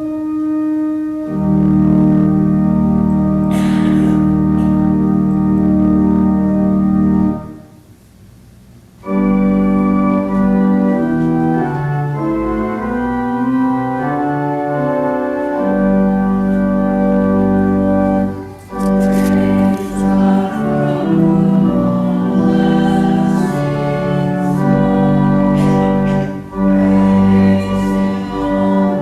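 Organ playing slow sustained chords with a deep bass line during the church offering, pausing for a second or two about eight seconds in and then moving through changing chords.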